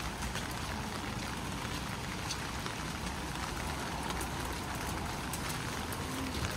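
Steady rain: an even hiss with many small drop ticks, over a low rumble.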